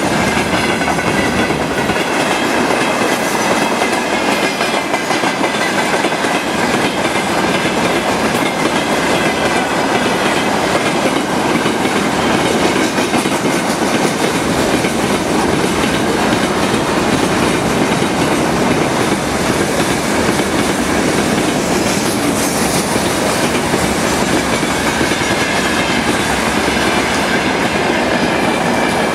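Freight train rolling steadily past, its wheels clattering over the rails with a faint high ringing.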